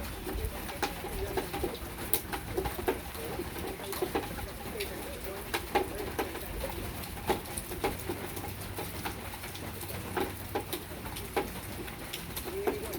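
Rain falling in a backyard: irregular drops tapping sharply on hard surfaces over a steady background patter.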